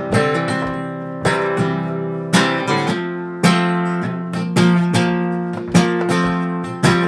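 Acoustic guitar strummed in an even rhythm, about one chord a second, each chord ringing on until the next strum.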